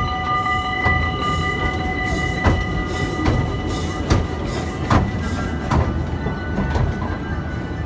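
Theme-park train running on its rails with a steady low rumble and irregular clacks from the wheels. A high wheel squeal holds for the first few seconds and then fades.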